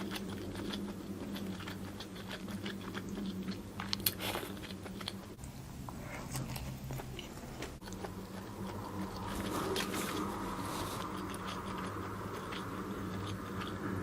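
A person chewing and biting grilled barbecue food close to the microphone, with irregular small crunches and smacks. A steady low hum sits underneath.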